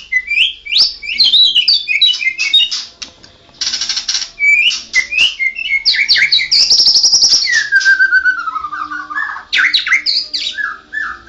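White-rumped shama (murai batu) singing a rapid, varied song of whistled phrases, trills and harsh buzzy notes, with a long falling whistle near the end.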